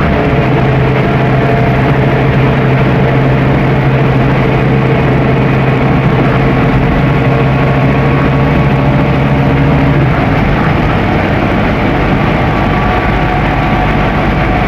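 Scania N270UD OmniDekka double-decker bus running at speed: the five-cylinder diesel engine's steady drone over road and body noise, with the engine note dropping away about ten seconds in.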